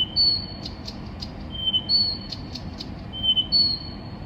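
A songbird singing, repeating the same phrase about every second and a half: a held steady whistle, a second held whistle a little higher, then a few short sharp notes. It sings three times over.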